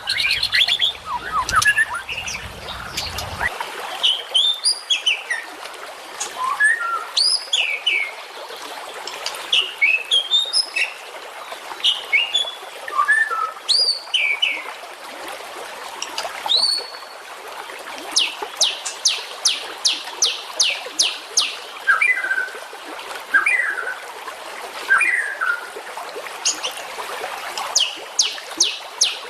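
Recorded songbird calls from a masteran training track: varied chirps and quick sweeping whistles. About eighteen seconds in comes a fast run of sharp repeated notes, about four a second, and another run near the end.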